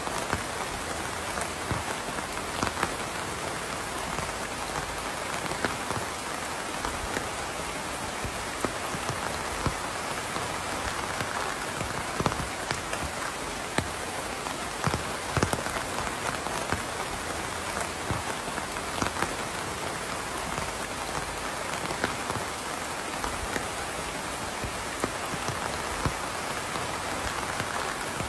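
Steady rain, with a constant hiss and many individual drops striking close by.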